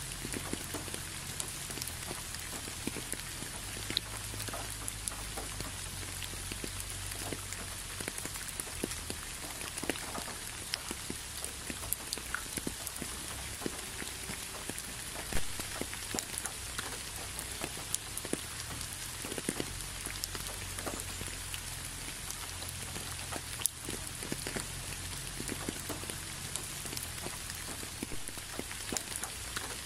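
Steady rain falling, an even hiss with many separate drops striking close by, one louder drop about halfway through.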